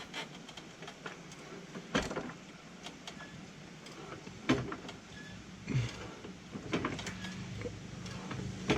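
Jack being worked under a car to lift it: a few separate metallic clicks and knocks, one every second or two. A low hum comes in near the end.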